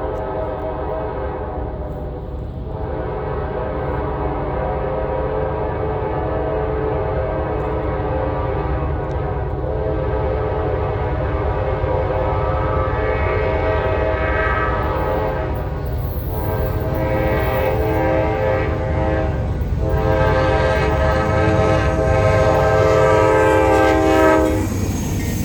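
GE C44-9W locomotive's air horn blowing a long hornshow: a multi-note chord held with brief breaks about 2, 16 and 20 seconds in, louder later on, and cut off near the end. Beneath it runs the low rumble of the passing train.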